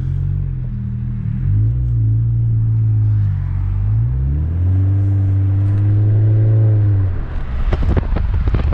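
Supercharged Hellcat V8 in an engine-swapped minivan, accelerating hard. The engine note climbs in pitch about one and a half seconds in and eases off. It climbs again about four and a half seconds in, holds, and drops away about seven seconds in.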